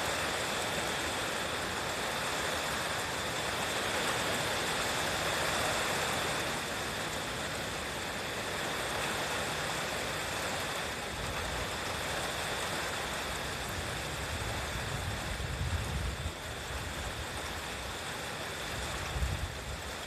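Strong gusty Yamaji wind and rain making a steady rushing hiss. From about halfway through, deep rumbling gust buffets on the microphone come and go, the strongest near the end.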